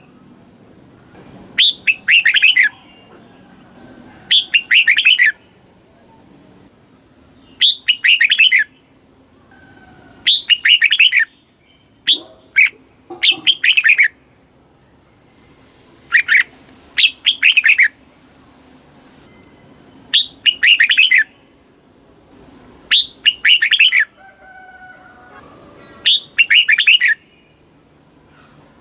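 Red-whiskered bulbul singing: short, loud, warbling song phrases of about a second each, repeated every two to three seconds.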